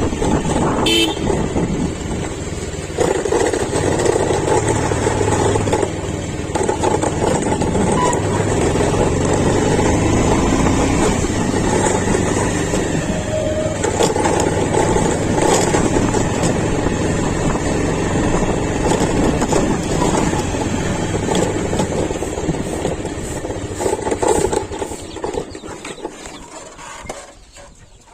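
Diesel engine of a JCB 3DX backhoe loader running steadily under working load, fading away over the last few seconds.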